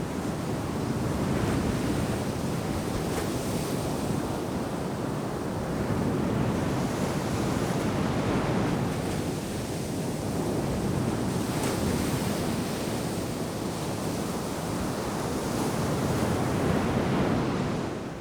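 Ocean surf breaking and washing up the beach, a continuous rushing that swells and eases with each wave every few seconds.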